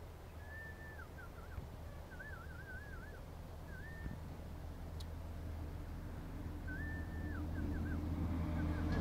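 A bird sings short whistled phrases, some held and some a quick wavering trill, repeated several times. Under it runs a low steady hum that grows louder toward the end.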